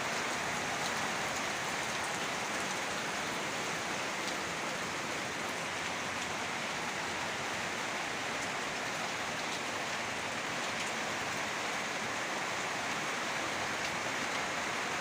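Heavy rain pouring steadily, an even hiss with scattered ticks of drops striking nearby surfaces.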